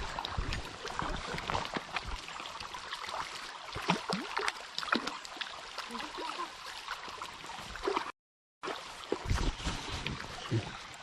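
Small creek running, with scattered close splashes, knocks and handling clatter over the water. The sound cuts out completely for about half a second a little after the middle.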